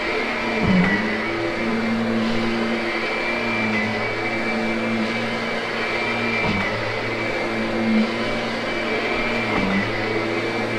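Kirby upright vacuum running steadily on carpet, a motor hum with a high whine, its pitch dipping briefly three times: about a second in, midway through and near the end.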